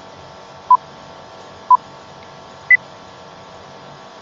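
Countdown timer beeping once a second: two short, identical electronic beeps, then a final beep higher in pitch that marks the countdown running out. Underneath is a faint steady hiss.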